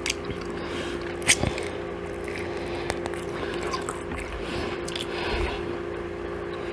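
Close-up eating sounds of chicken and waffles: wet, squishy chewing and mouth noises with a few sharp clicks, the loudest about a second in, over a steady low hum.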